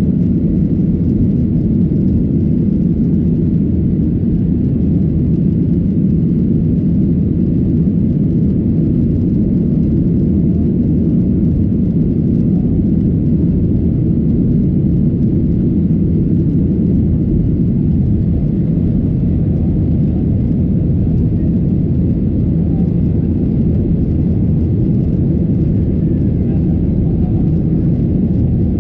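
Steady low rumble of a Boeing 737-800's CFM56-7B26 engines and airflow, heard from inside the passenger cabin.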